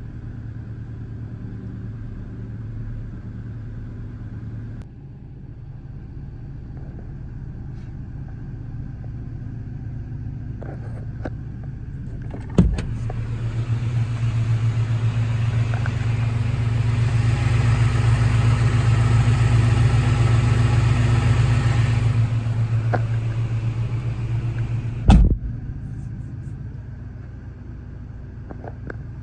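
A 1996 Toyota Tacoma's engine and exhaust running steadily at idle, settling slightly quieter about five seconds in. A sharp click comes about twelve seconds in, then the engine runs louder and fuller for about ten seconds. Another sharp click follows, and the quieter running returns.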